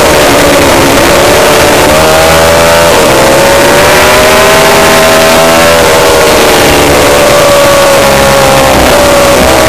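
Lightweight superbike racing motorcycle engine running hard at high revs, its pitch climbing under acceleration and dropping suddenly at several gear changes.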